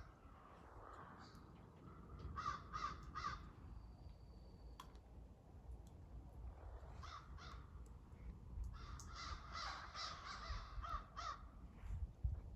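Crows cawing in short runs of harsh calls: three or four caws about two seconds in, a few more around seven seconds, and a longer run of caws from about nine to eleven seconds.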